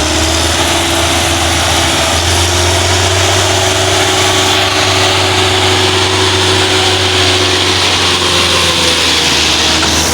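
Belarus 510 tractor's diesel engine running steadily, its pitch easing down slightly near the end.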